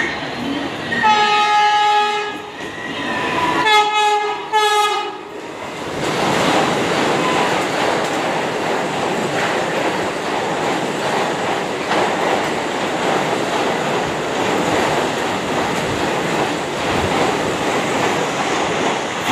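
Vande Bharat Express electric train sounding its horn, one long blast about a second in and two shorter blasts around four seconds, then running through the station at speed with a steady rushing noise of wheels on rail and air.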